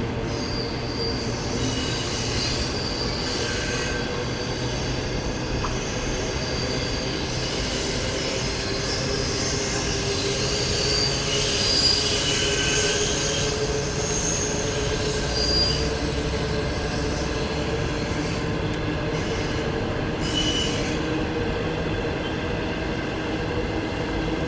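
Train running by on steel rails with a steady rumble, its wheels squealing in thin high tones that come and go.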